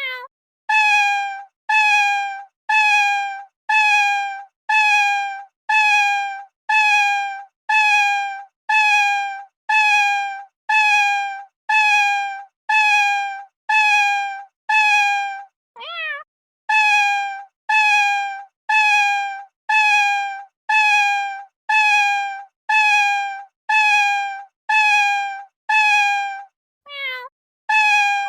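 A cat meowing: the same short, slightly falling meow repeated evenly about once a second, with one different meow that rises and falls partway through.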